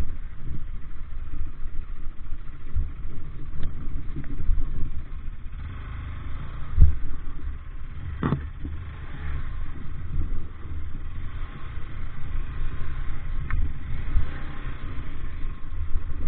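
A vehicle engine running on the move, with a heavy, uneven low rumble and a couple of sharp knocks about halfway through.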